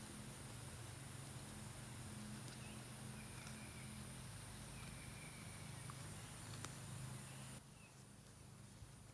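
Faint outdoor ambience: a steady high-pitched drone over a low hum, with a few scattered small clicks. The high drone cuts off abruptly near the end.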